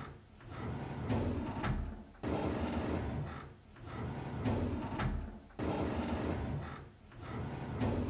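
A drawer sliding open on its runners, a rumbling slide with small knocks and clicks. It repeats about every three and a half seconds, each time starting suddenly and fading away.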